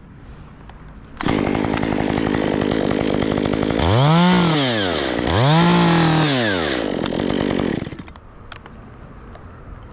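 Two-stroke chainsaw that starts abruptly about a second in and runs steadily. It is then revved up and back down twice in quick succession, and the sound stops shortly before the end.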